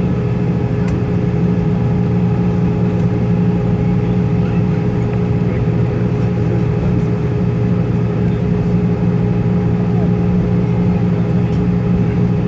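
Airbus A320-214 cabin noise: the CFM56-5B engines and airflow make a constant low drone, with a steady whine held above it.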